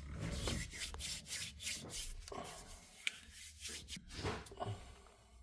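Irregular rubbing and scraping strokes, with a sharp click about three seconds in.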